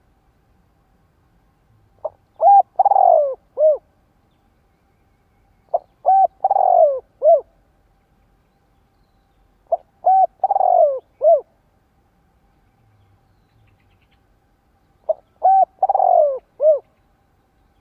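Spotted dove cooing four times, several seconds apart. Each phrase is a quick pair of short notes, a longer rough coo that falls in pitch, and a short final note.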